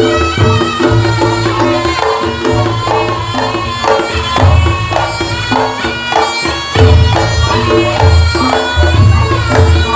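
Reog Ponorogo gamelan accompaniment: a slompret (reed shawm) playing the melody over repeated kendang drum strokes and gongs.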